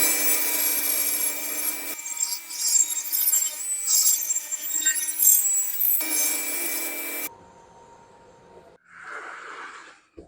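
Table saw running with a steady whine, its blade ripping through a board for about four seconds in the middle, trimming a wavy live edge straight against the fence. The sound cuts off suddenly about seven seconds in.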